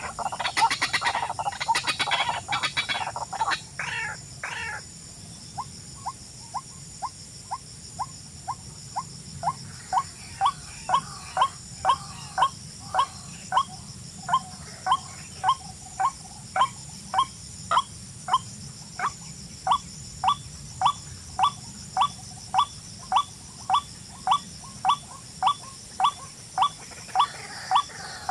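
A bird calling in short rising chirps repeated evenly, about one and a half a second, after a few seconds of busier, broken calling at the start. A steady faint high-pitched hum runs underneath.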